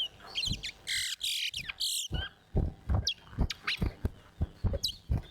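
Towa-towa (large-billed seed finch) singing in a song race: quick, short chirps and sweeping whistled notes in rapid runs. Dull low thumps come in among the notes.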